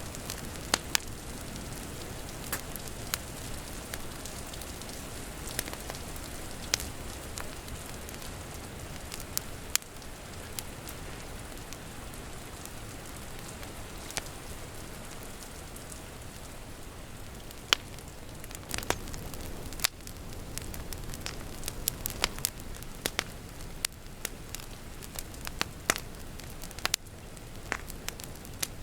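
Wood fire crackling, with sharp pops scattered through it that come more often in the second half, over a steady hiss of rain.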